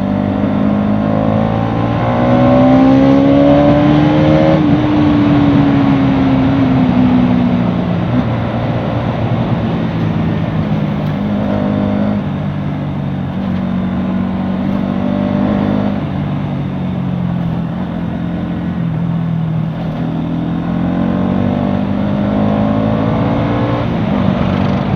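Bajaj Pulsar NS200's single-cylinder engine running under way, with a steady rushing noise. The revs climb over the first few seconds and fall off by about eight seconds in, hold lower with small shifts in pitch, then climb again near the end.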